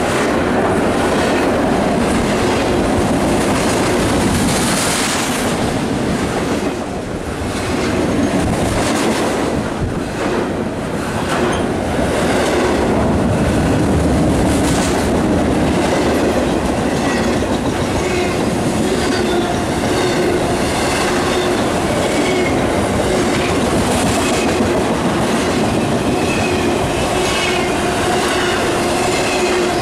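Freight train cars rolling past, their wheels clacking steadily over the rail joints. Faint high wheel squeal comes in during the later part.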